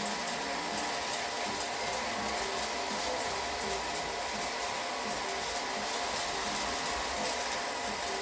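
A steady mechanical running noise with a faint hum in it, unchanging throughout.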